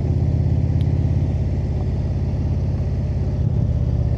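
Indian V-twin motorcycle engine running at a steady cruise, a low, evenly pulsing rumble that dips briefly about three and a half seconds in.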